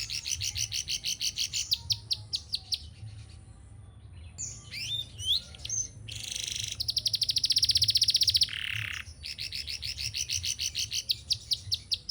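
Domestic canary singing in short phrases of rapid repeated-note trills, the loudest a fast buzzy trill in the middle. The song is still short and broken, as a canary's is when it has just finished its moult.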